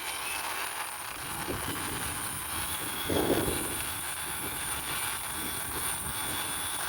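Small plastic toy police motorbike pushed along by hand, its wheels rolling with a steady rumble and a brief louder scrape about three seconds in.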